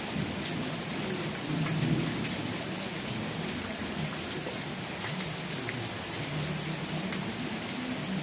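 Steady rain falling, with scattered sharp drop ticks over a continuous hiss and a low, wavering rumble underneath.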